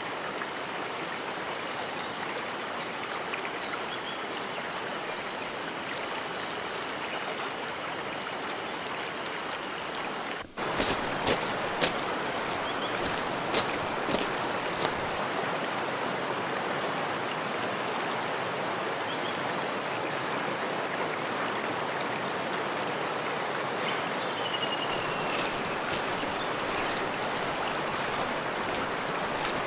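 Clear mountain stream rushing steadily, with small birds chirping now and then. About ten seconds in it cuts to a slightly louder stretch of running water with a few sharp ticks.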